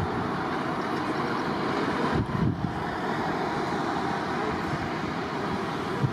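Jet aircraft engine noise: a steady, even rush with a brief swell about two seconds in.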